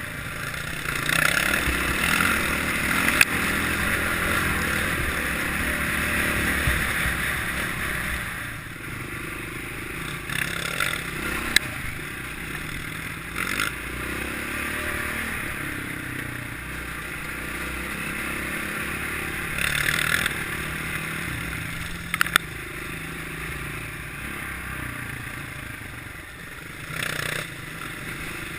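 Kawasaki KLX650R's single-cylinder four-stroke engine running as the bike is ridden off-road, the engine note rising and falling with the throttle, with a rushing noise and scattered sharp knocks and clatter from the bike over rough ground.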